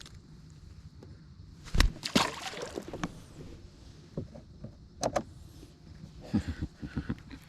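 Handling noises while fishing: a hard thump about two seconds in, a short rush of noise right after it, and a quick run of light knocks near the end.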